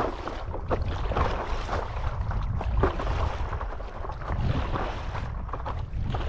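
Wind rumbling on the microphone over sea water sloshing and splashing around an inflatable paddle board, with a few short splashes.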